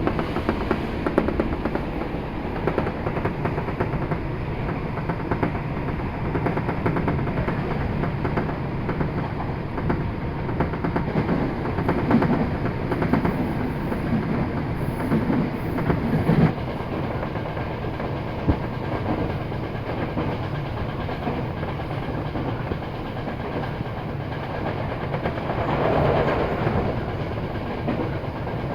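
Passenger train running at speed, heard from inside the carriage with a window opened wide: a steady loud rumble and rush of air, with wheels clacking over rail joints.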